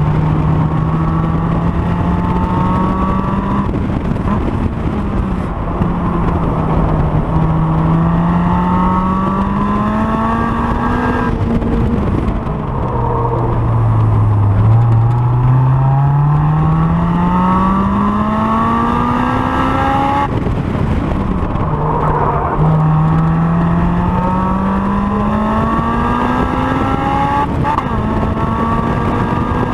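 Honda S2000's four-cylinder engine at full throttle on track, its pitch climbing steadily through each gear and dropping back at each gear change. The revs sink to their lowest about 14 seconds in as the car slows, then climb again through the gears.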